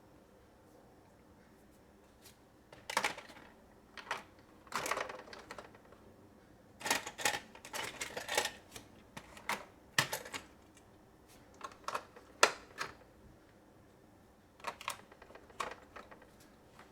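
Plastic toy pieces being handled: irregular clicks and clatters of hard plastic knocking together, starting about two seconds in, with one sharper knock about midway.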